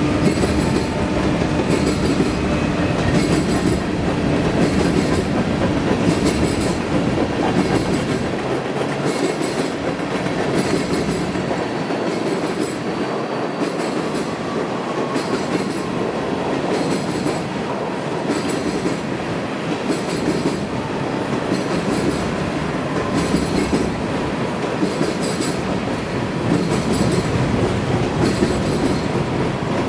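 Railroad cars rolling past, their wheels clacking over the rail joints in a steady rhythm of about one clack a second over a continuous rumble.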